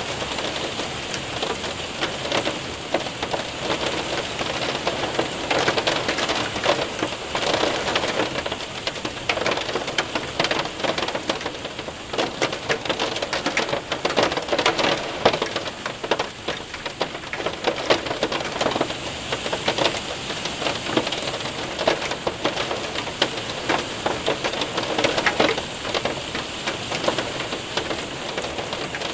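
Hail and heavy rain hitting a window and roof: a steady dense patter with many sharp ticks of hailstones throughout.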